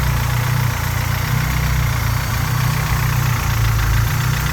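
Honda G23 engine idling with a rapid knocking ta-ta-ta, which the owner takes for piston slap that is worse while the engine is cold.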